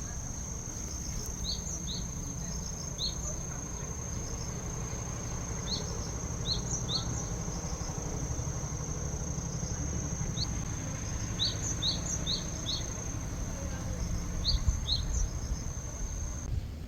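An insect's steady high-pitched trill, held unbroken and cutting off near the end. Short high chirps come in small groups over it, above a low rumble.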